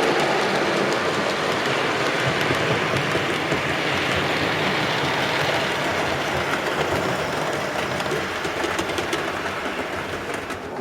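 Model railway train running along the track, a steady rushing rumble of motor and wheels with faint clicks, growing a little fainter near the end.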